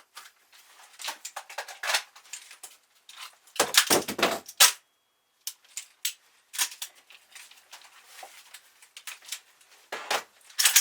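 Airsoft replica rifle, pistol and magazines being handled in reload and transition drills: a string of sharp plastic and metal clicks and clacks, with a louder burst of knocks about four seconds in and another near the end.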